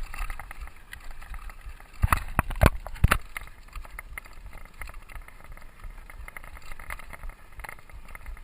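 Mountain bike riding a dirt trail: steady low rumble of tyres and wind with constant light rattling. There are three loud jolts about two to three seconds in as the bike hits rough ground.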